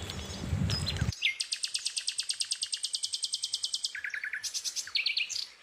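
A songbird trilling: a fast, even run of high chirps, about a dozen a second, then shorter, lower runs of chirps near the end.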